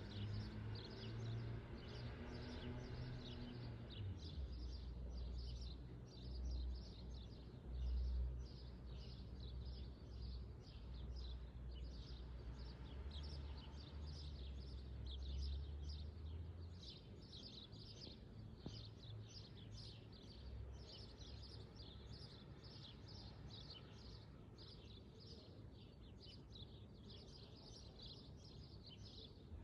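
Small birds chirping continuously, many short rapid calls overlapping, over a low rumble that fades out a little past halfway.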